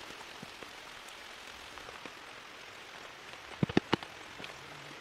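Steady rain falling, a constant even hiss. A little past the middle, a quick run of about four sharp knocks stands out over it.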